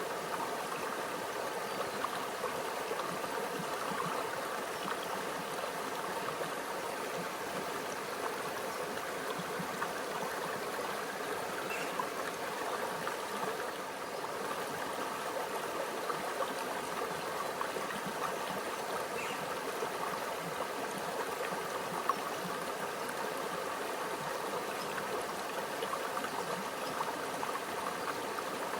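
A quiet stream flowing in a steady, unbroken babble of water, with small brief plinks standing out now and then.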